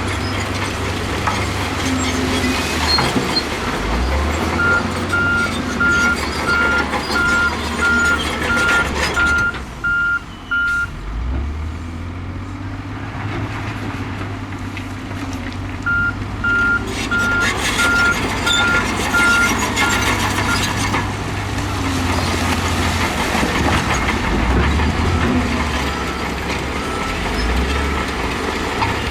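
Diesel engine of a heavy earthmoving machine running and changing speed, with its reversing alarm beeping about twice a second in two runs of several seconds, the second starting about halfway through.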